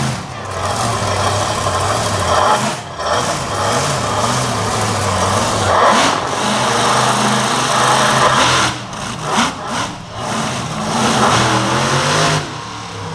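Monster truck engine revving hard under changing throttle, pitch rising and falling, with brief lifts off the throttle about three seconds in, between nine and ten seconds, and near the end.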